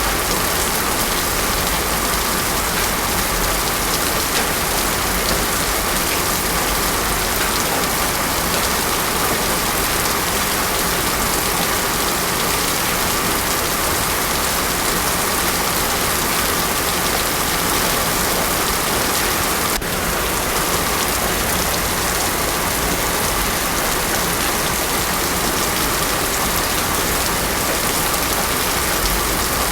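Heavy rain falling steadily on a road surface, a dense even hiss with no thunder. One faint click about two-thirds of the way through.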